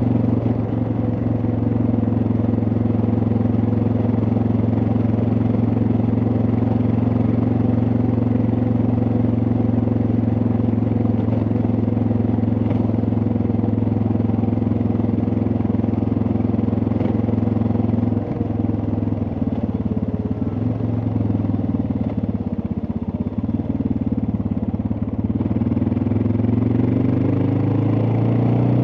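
Suzuki DR650's single-cylinder four-stroke engine running at a steady cruise. About two-thirds of the way in its pitch drops and wavers as the bike slows, then climbs again near the end as it speeds back up.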